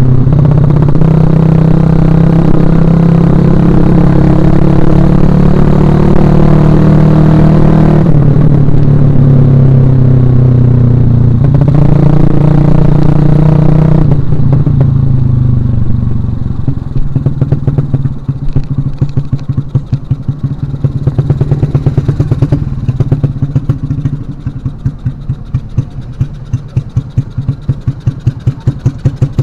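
Suzuki Shogun Axelo R's small four-stroke single accelerating: the engine note climbs, drops suddenly twice at gear changes, then falls away as the throttle closes. It settles into low revs with a distinct, pulsing exhaust beat.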